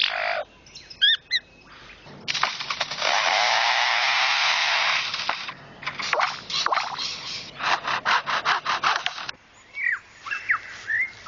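Superb lyrebird mimicking foresters' chainsaws: a long buzzing rasp, then a run of quick rasping saw-like strokes. A few short chirps come near the end.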